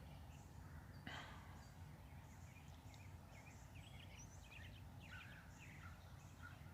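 Faint songbirds chirping and singing, many short calls over a low steady background noise.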